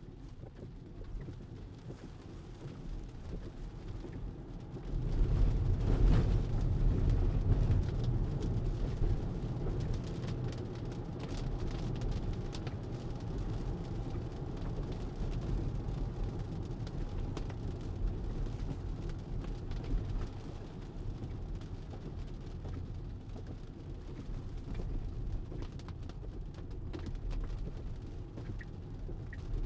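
Tyre and road noise from a Tesla on wet pavement, heard inside the cabin: a low rumble that grows much louder about five seconds in, with faint scattered ticking of rain on the car.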